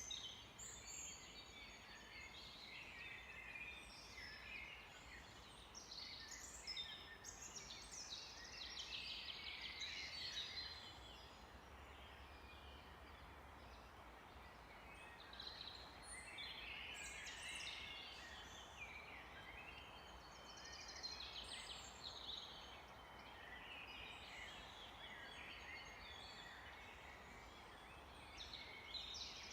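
Several songbirds singing and chirping at once in forest, overlapping high calls and quick trills, over a faint steady hiss.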